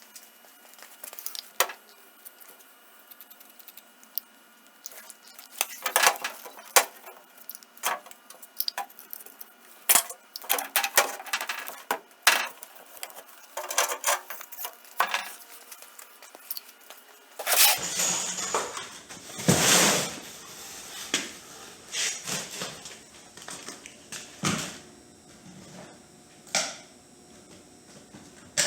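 Irregular clicks, clatters and knocks of hard objects being handled, getting fuller and louder in the second half.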